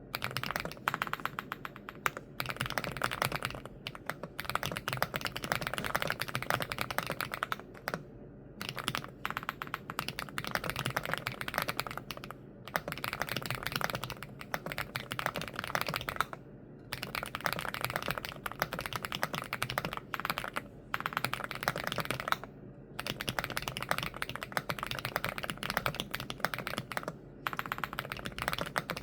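Fast typing on a Rainy75 mechanical keyboard with foam-filled case and Haimu MP tactile switches, dense key clicks in runs of a few seconds with brief pauses between them.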